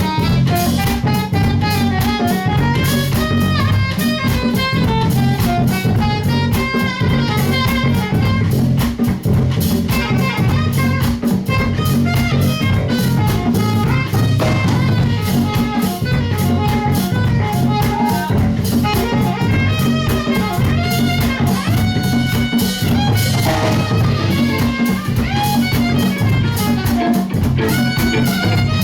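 Live band playing an instrumental passage: drum kit and bass keep a steady groove under a winding melodic lead line.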